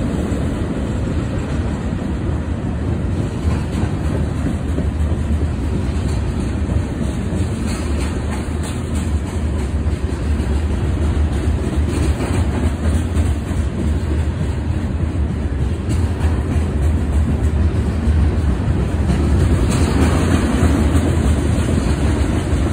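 Freight train cars rolling past: a steady rumble of steel wheels on rail, with a few clacks as the wheels cross the track.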